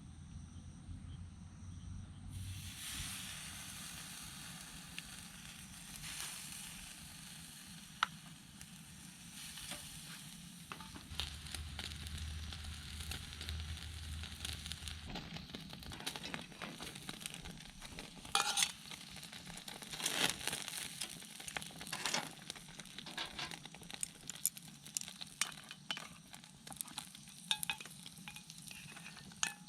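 Sliced pork belly sizzling on a grill plate over a fire pit. The hiss starts about two seconds in, and sharp pops and crackles come thicker in the second half.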